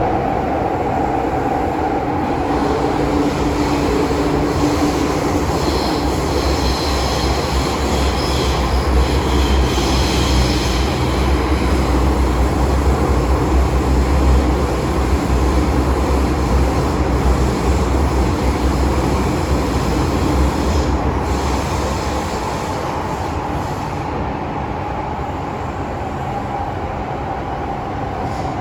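MTR Island Line M-train running between stations: a steady rumble of wheels and running gear, with high wheel squeal for several seconds early in the run. The sound eases off in the last few seconds.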